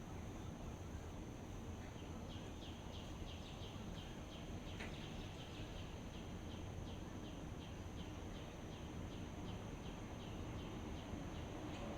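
Dawn outdoor ambience: a bird repeats a short falling chirp about two to three times a second from about two seconds in until near the end, over a steady high insect drone and a low steady rumble.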